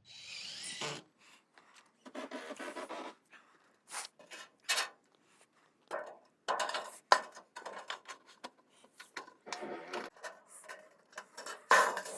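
Scraping, rubbing and sharp clicks and knocks from hands-on work on a dock: aluminum trim being handled and fitted against the decking boards.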